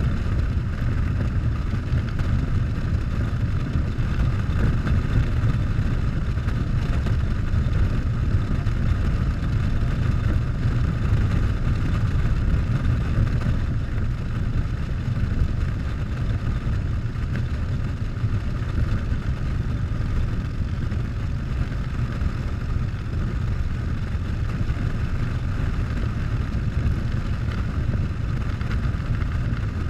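Harley-Davidson Softail V-twin engine running steadily while the motorcycle is ridden at an even speed.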